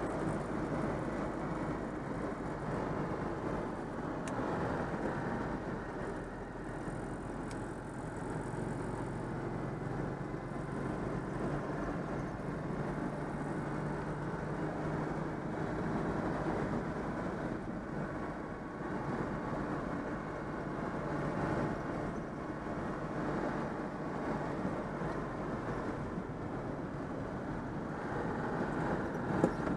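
Citroën 2CV's air-cooled flat-twin engine, freshly overhauled, running steadily while the car drives along. There is a single short click near the end.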